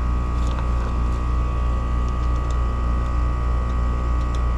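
Steady low machine hum with a constant drone, unchanging in level.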